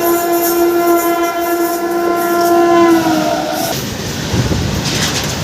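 Train horn sounding one long steady blast that dips slightly in pitch and stops about three and a half seconds in, followed by the low rumble and clatter of train wheels on the rails.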